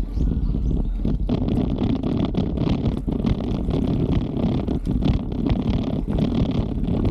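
A bicycle on the move: a steady low rumble of wind on the microphone and tyres rolling over the trail, with frequent small rattles and knocks from the bike going over bumps.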